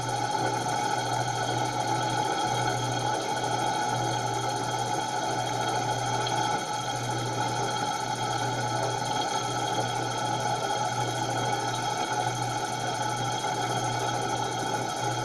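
Homemade laminar flow hot air engine running steadily.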